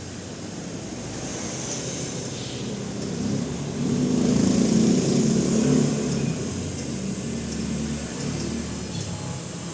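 A motor vehicle engine grows louder and then fades, loudest about halfway through, over a steady fan-like hum.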